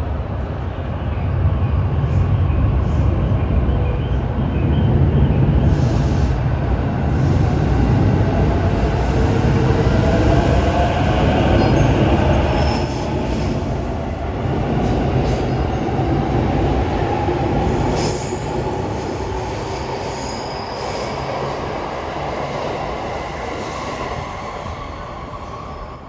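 Electric commuter train running along a station platform: low rumble of wheels on rail with a gliding motor whine and thin high wheel squeal, gradually fading toward the end.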